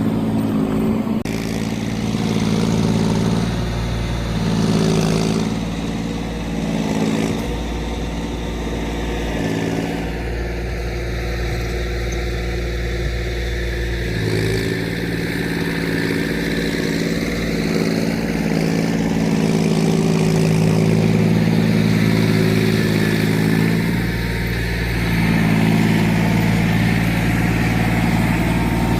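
Tractor engine running steadily as it ploughs a paddy field, its low note shifting a little every few seconds.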